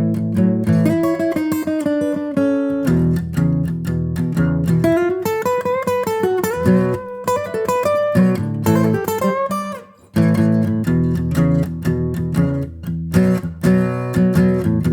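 Guitar music: plucked notes under a sliding melody line, with a brief break about ten seconds in.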